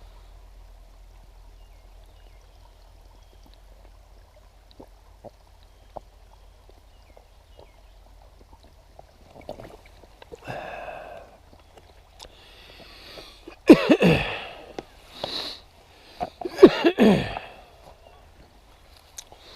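Two loud vocal outbursts from a person, about three seconds apart, each following a quieter breath. A few faint ticks come earlier.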